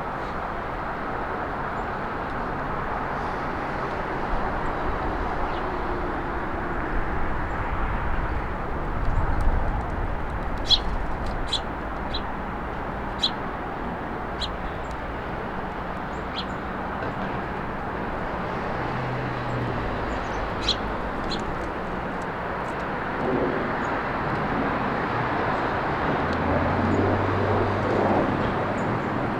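Steady hum of road traffic, with short high chirps from small birds at a feeder, clustered about a third of the way in and again a little past halfway. A vehicle's engine tone rises out of the traffic near the end.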